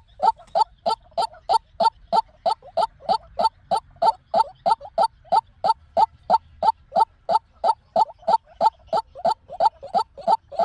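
White-breasted waterhen calling: a fast, monotonous run of short harsh notes, about three to four a second, without a break.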